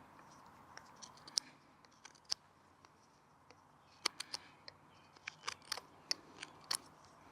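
Swiss Army knife blade whittling a wooden wedge: short, sharp snicks of the blade shaving wood, a few at first, then an irregular run of them in the second half.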